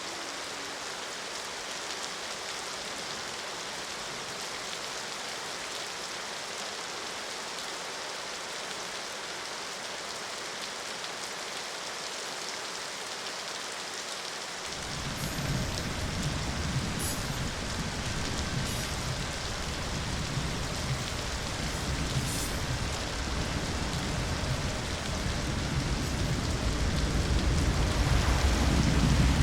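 Steady rain hiss. About halfway through, a deep low rumble comes in under the rain and swells, loudest near the end.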